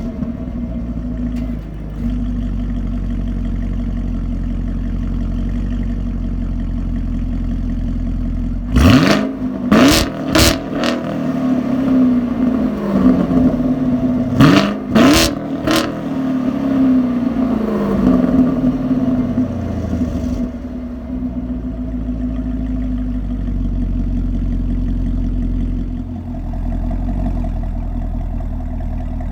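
2018 Chevrolet Camaro SS 1LE's 6.2-litre LT1 V8 with the dual-mode exhaust valves fully open (Track mode), settling from a fresh start into a steady idle. It is blipped in two sets of three quick revs, the pitch falling back to idle after each, then idles again.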